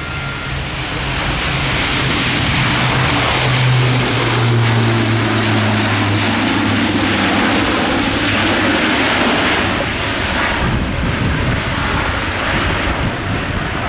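Military aircraft engines going by close, a loud steady rush with a low hum that drops in pitch as it passes, about four to six seconds in.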